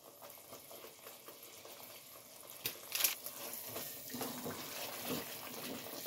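Spice paste sizzling gently in hot oil in a nonstick pot, being fried down until the oil separates. A couple of light ticks come about three seconds in, and a silicone spatula then stirs and scrapes through the masala.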